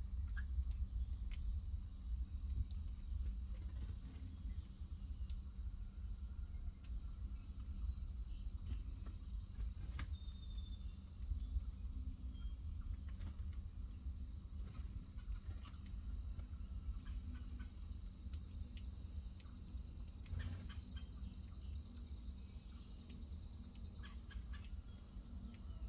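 Insects trilling steadily, with a second, higher buzzing trill joining twice for several seconds, over a constant low rumble and scattered faint clicks.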